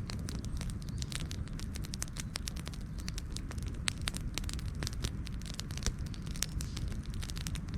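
Campfire crackling and popping, with many irregular sharp snaps over a steady low rumble of burning.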